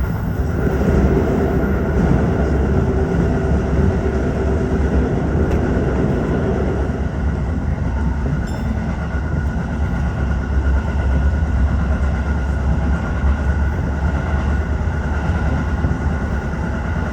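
Tokyo Metro 15000 series electric train running at speed: a steady rumble of wheels on rail and traction motors. A hum from the motors sounds for the first several seconds, then fades.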